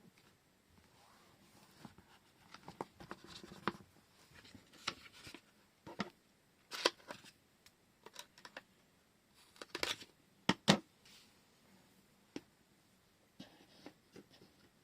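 Paper and washi tape being handled at a desk: irregular rustles and sharp clicks, with the loudest clicks about seven and ten seconds in.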